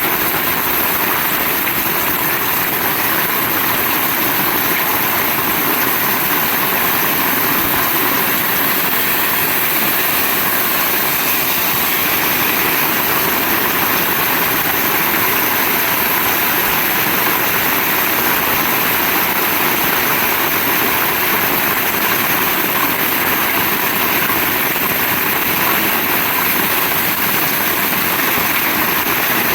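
Heavy rain pouring steadily, an even, unbroken hiss of downpour.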